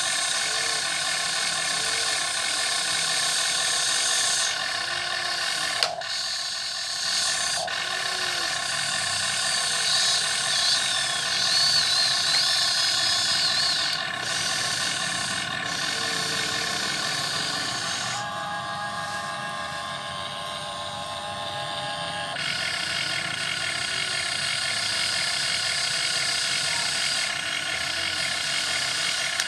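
Electric motors and gears of a radio-controlled model excavator whining steadily as it works. The pitch and mix change as different functions run, with a shift about 18 seconds in and again around 22 seconds.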